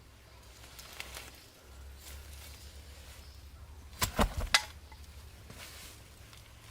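Faint rustling, with a single click about a second in and a quick cluster of three or four sharp knocks about four seconds in.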